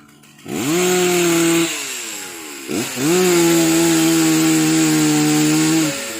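Chainsaw engine revved up twice: a sharp rise to a high, steady whine held for about a second, a drop in pitch, then a second rise held for about three seconds before it cuts off near the end.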